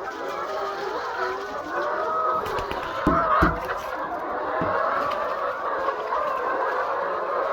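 A large flock of laying hens clucking and calling, many birds overlapping continuously. Two dull thumps about three seconds in.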